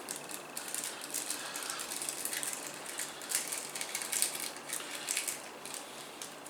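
A run of small, uneven clicks and ticks from computer case hardware being handled and screwed together while case fans are fitted.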